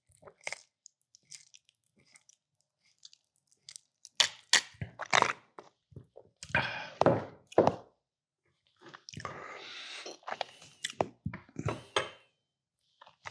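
Close-miked chewing and mouth sounds of someone eating, with scattered small clicks and a few louder wet bursts.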